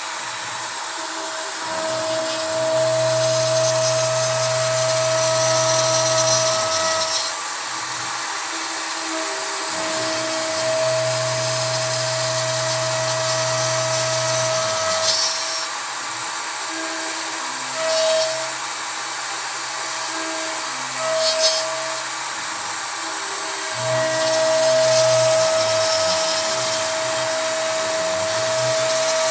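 Kress router spindle on a CNC router running at high speed while a 3 mm end mill cuts pine, a steady high whine with cutting noise. A lower hum comes and goes in stretches of a few seconds as the machine moves, with a few short clicks.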